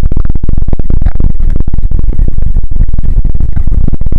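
Heavy wind buffeting on the camera microphone while cycling: a loud, continuous, rumbling roar with rapid irregular gusts.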